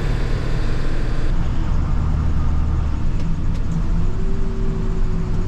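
Salt truck driving along the road, its engine running steadily with road noise; the high hiss eases about a second in.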